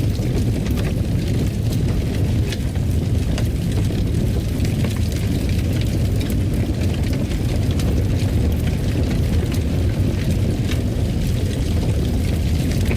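Fireplace crackling: a steady low rumble of burning with many irregular sharp pops and crackles scattered throughout.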